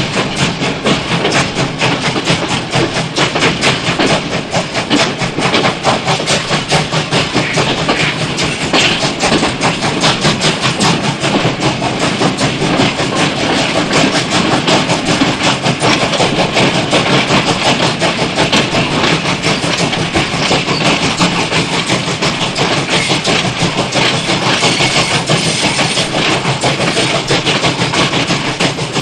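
Train running on rails, a steady rapid clatter that goes on without a break.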